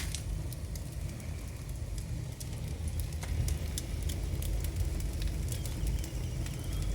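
Wood fire in a 120 cm open fireplace, burning damp logs, with a steady low rumble of strong draught and scattered crackles. The steady hum is the sign of a good, strong chimney draught.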